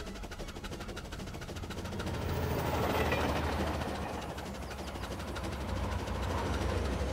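Train running along the track: a steady low rumble with a rushing swell for a couple of seconds in the middle, and faint regular clicking at the start.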